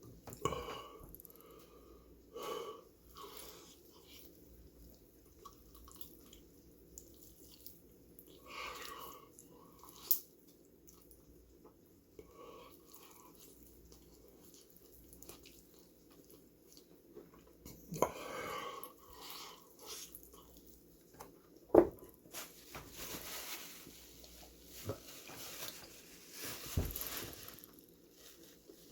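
A man chewing and biting chicken, with short wheezing, hissing breaths in between from the heat of the extra-spicy sauce. There is one sharp tap about two-thirds of the way through.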